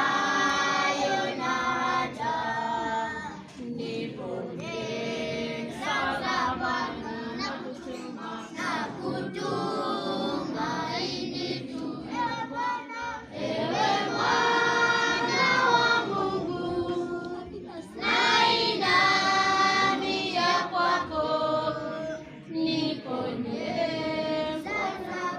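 A choir singing a church hymn in phrases of several seconds, with brief breaks between them.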